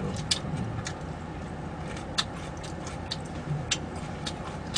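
Eating sounds: irregular small clicks and smacks of chewing and of food being picked up, about one every half second to second.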